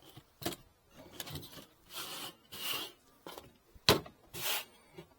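Old wooden beehive frames being handled: intermittent rubbing and scraping, with one sharp knock about four seconds in.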